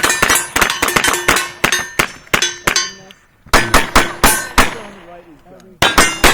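Rapid gunfire at steel targets, each shot followed by the clang and ring of struck steel plates. The shots come in quick runs, with two short lulls in between.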